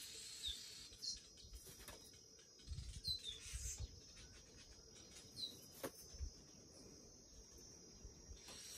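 Short, high chirps, each falling in pitch, repeating every second or two, typical of a small bird calling, over a faint steady high insect-like drone. A few soft low thumps come around three and six seconds in.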